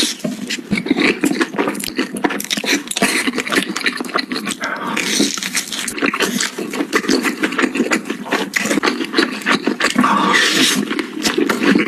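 Close-up chewing and slurping of chewy rice cakes in sticky cheese sauce: many short wet smacks and clicks, with no pause.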